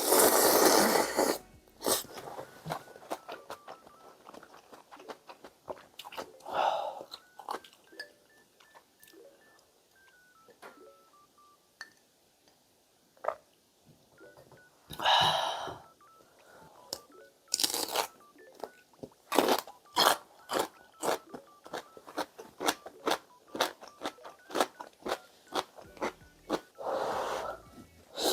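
Mukbang eating sounds of instant ramyun noodles: steady chewing with many small wet clicks, broken by a few longer slurps of about a second each, near the start, around the middle and near the end.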